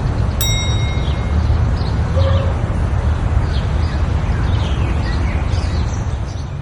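Birds chirping: many short, quick falling chirps over a steady low rumble. A brief ringing ping sounds about half a second in, and everything fades out at the end.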